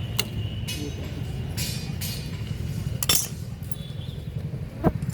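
Metal tools clinking against motorcycle engine parts during a teardown, about five sharp clinks with two louder ones near the end, over a steady low rumble.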